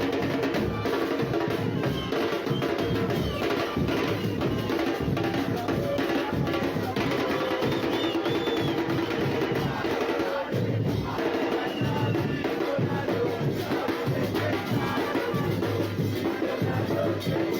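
Football supporters' band drumming a steady, dense beat on bass drums and snares, with a continuous pitched layer of music over it.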